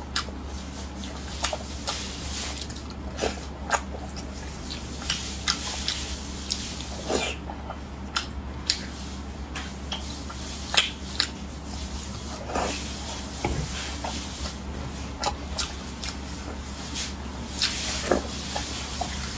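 Close-miked wet mouth sounds of eating raw salmon sashimi: soft chewing with sharp lip-smacks and clicks every second or so, irregular, over a steady low hum.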